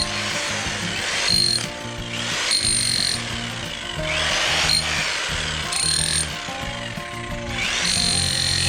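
Electric demolition hammer (Bosch GSH5X) fitted with a spade bit, breaking into soil in repeated short bursts, with background music throughout.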